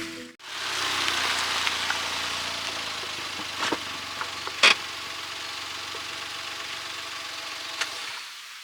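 Firewood burning in a fire pit: a steady crackling hiss with a few sharp pops, the loudest about four and a half seconds in, over a low steady hum. The sound drops away near the end.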